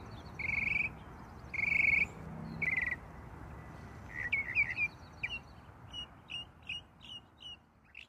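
Birds calling over a steady background hiss: short buzzy calls repeated about once a second, then quick chirps and a run of short notes about three a second.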